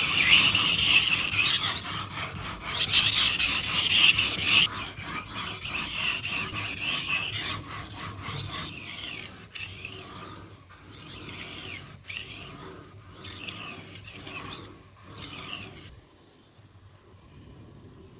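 Sharpening stone on a guided knife sharpener stroked back and forth along a knife edge, a run of scraping strokes that gets gradually quieter and stops a couple of seconds before the end.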